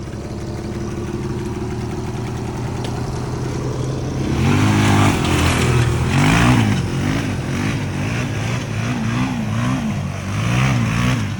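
The engine of a home-built lawnmower running, its drive belt thrown off, then revved up and down about six times in quick succession from about four seconds in.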